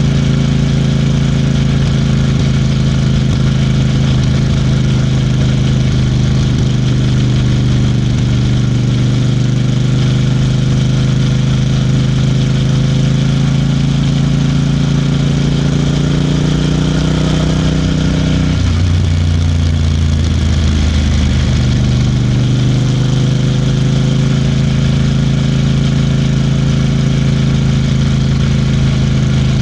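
Royal Enfield Bear 650's parallel-twin engine and exhaust running steadily while riding. About two-thirds of the way through, the engine note drops lower for a few seconds, then climbs back to its earlier pitch.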